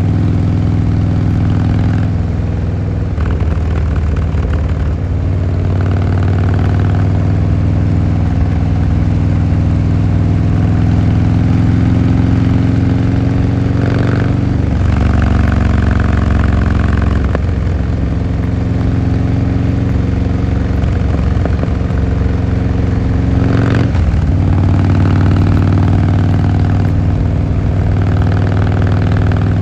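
Harley-Davidson Fat Boy Lo's V-twin engine and exhaust running under way. The pitch climbs slowly through the middle, with sudden shifts in pitch about 14 and 24 seconds in.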